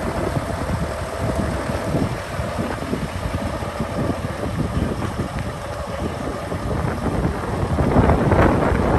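Fendt 828 Vario diesel tractor engine idling, with wind buffeting the microphone; the sound grows louder and broader near the end.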